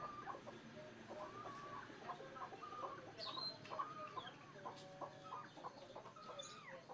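Chickens clucking faintly, a steady run of short repeated calls.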